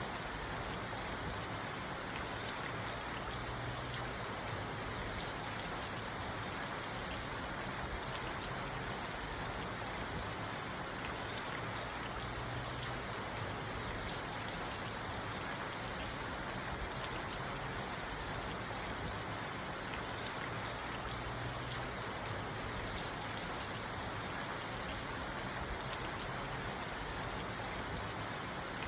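Steady rain on a parked car, heard from inside the cabin: an even hiss of drops on the roof and glass, with no thunder.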